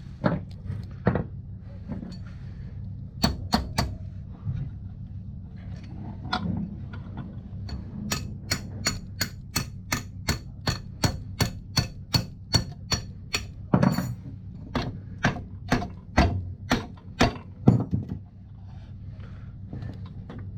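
Hammer blows on metal, driving out a corroded ATV wheel bearing: a few scattered strikes, then a run of steady blows at about three a second, then more irregular hits near the end.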